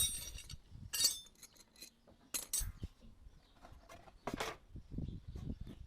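Metal tools being handled: a few separate clinks and knocks of steel on steel, some with a short bright ring.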